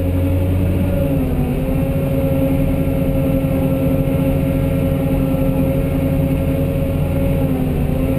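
Cat 988H wheel loader's C18 diesel engine running at its throttle-locked 1900 rpm, heard from inside the cab as the loader pushes into the rock pile in first gear. The pitch sags briefly about a second in and again near the end as the engine takes the load.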